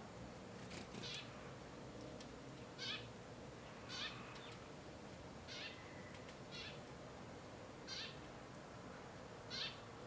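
A bird calls about seven times, each call short and high and sliding downward, one every one to two seconds over a faint steady background.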